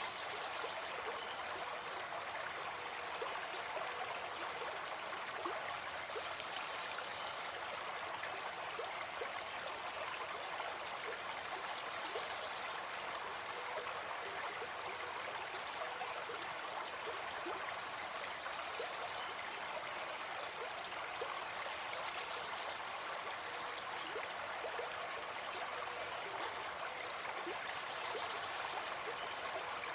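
Gentle forest stream flowing over stones, a steady even rush of water.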